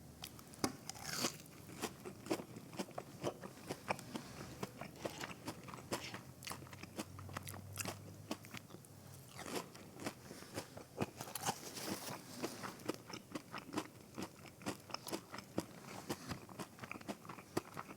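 Close-up chewing of breaded fried mozzarella sticks: many small crunches and wet chewing clicks, irregular throughout.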